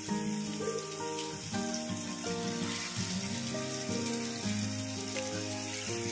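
An onion and tomato masala sizzling in a frying pan, a soft steady hiss, under background music of held notes that change every half second or so.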